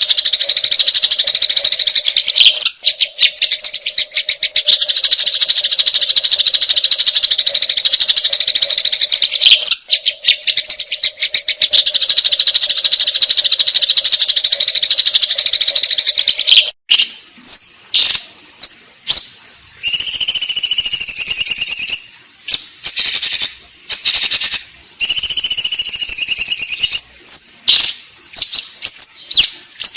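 Sparrows giving loud fighting calls: a dense, rapid chatter for the first half, broken twice by brief pauses, then separate sharp chirps repeated with short gaps.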